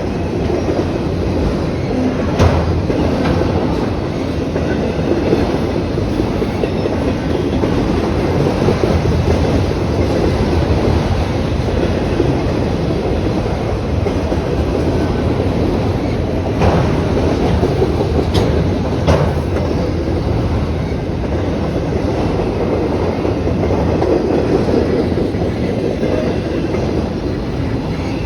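Train rolling past: a steady, loud rolling noise of railcars on the track, with a few sharp clanks, one a couple of seconds in and three more a little past the middle.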